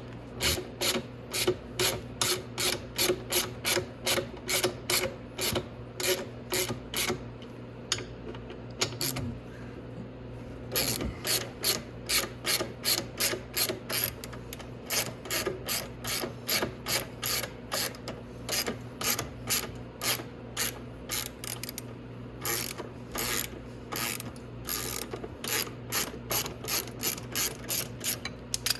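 Hand ratchet with a 13 mm socket on an extension clicking as it is swung back and forth, about two to three clicks a second, loosening bolts. It pauses briefly about a third of the way through.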